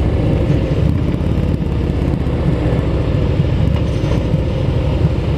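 Motorcycle engine running at low speed during a slow U-turn, a steady low rumble.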